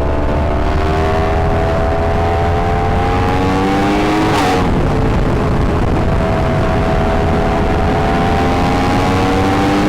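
Yamaha R1 inline-four motorcycle engine pulling under load, its pitch rising slowly, then dropping sharply with a brief burst of noise about four and a half seconds in as it shifts up a gear, before climbing again. A constant low rumble runs underneath.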